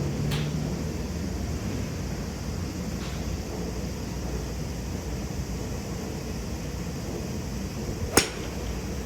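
Golf balls struck off clubs: two faint sharp clicks from further away, then one loud, sharp click near the end, over a steady low hum.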